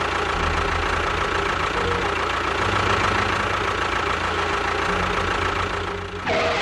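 An engine running steadily with a low, even throb, stopping near the end.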